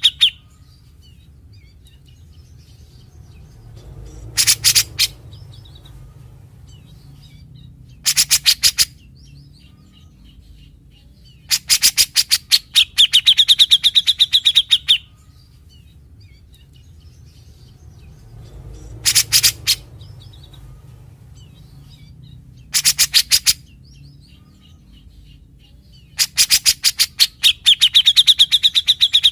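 Grey-cheeked bulbul (cucak jenggot) giving its harsh, rattling 'besetan' calls, trains of rapid clicking notes. They come in bouts, some under a second long and others about three seconds long, and the long bouts carry a steady high whistled tone.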